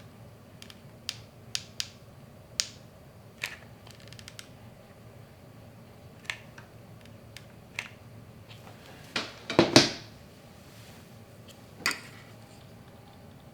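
Scattered small clicks and taps of hands handling small parts and tools on a workbench, with a louder cluster of knocks and rattles about nine to ten seconds in.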